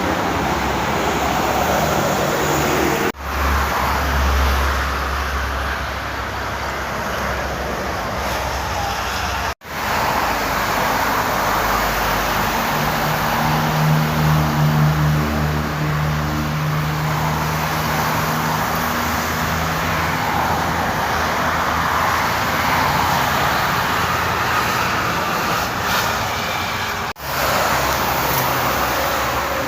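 Toll-road traffic: vehicles passing at speed, with a low steady engine drone from a heavy vehicle near the middle. The sound drops out abruptly three times, at cuts between shots.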